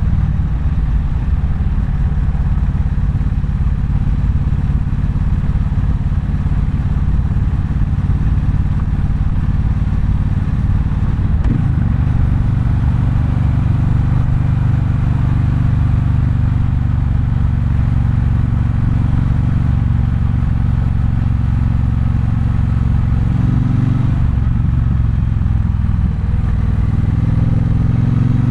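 Triumph Bonneville Bobber's 1200 cc parallel-twin engine running under way at a steady cruise. About 24 seconds in the revs drop, then climb again near the end as it accelerates.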